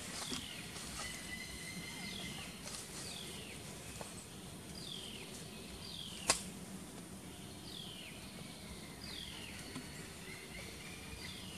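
A bird repeating a short whistled note that slides downward in pitch, about once every one to two seconds, over a steady background hiss. A single sharp click a little past halfway is the loudest sound.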